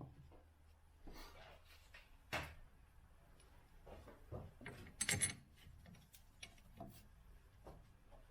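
Scattered light knocks and clicks of objects being handled, the loudest about two and a half and five seconds in.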